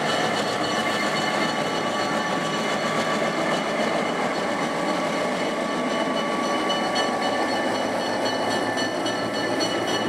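A train running along the track: a steady rolling noise with several high steady tones ringing over it.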